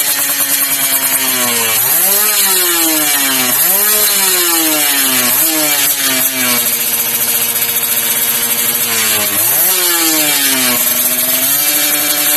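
Kawasaki Ninja 150 two-stroke single-cylinder engine running through a stainless aftermarket exhaust, revved in five quick blips that rise sharply and fall back to a steady idle.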